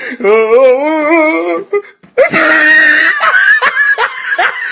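A voice wails for about a second and a half with a wobbling pitch, then breaks off. A loud, harsh, noisy cry follows, and then a run of short rising yelps.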